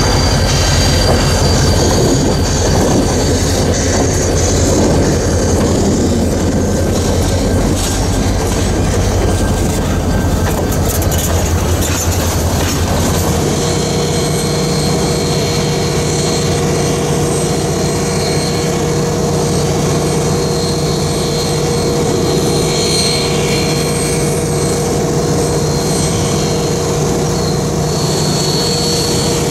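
Passenger train rolling slowly past close by: a steady rumble of steel wheels on rail with clickety-clack and some wheel squeal. About halfway through, the rumble eases and a steady hum sets in as Western Maryland Scenic Railroad's steam locomotive #1309 comes alongside.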